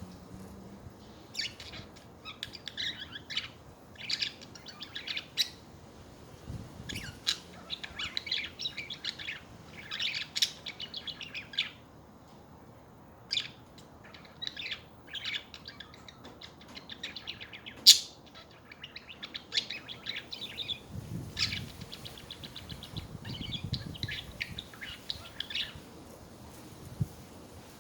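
Pet budgerigars chattering: bursts of rapid warbling chirps and clicks with short pauses between them, and one sharp, loud click partway through.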